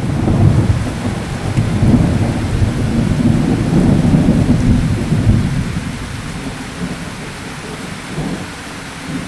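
A thunderstorm: rolling thunder over steady rain. The rumble is loudest through the first half and dies away over the last few seconds, leaving the rain.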